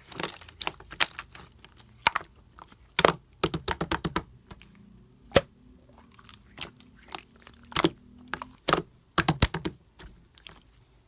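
Clear slime being squished and pressed by hand, giving irregular sharp clicks and pops in clusters with short pauses between them.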